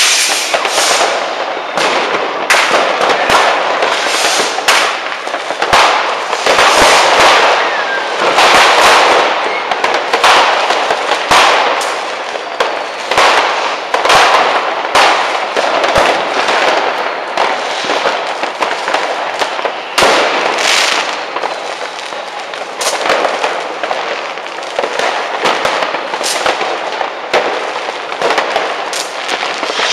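Many fireworks and firecrackers going off at once: a dense, unbroken crackle of sharp bangs and pops with no pause.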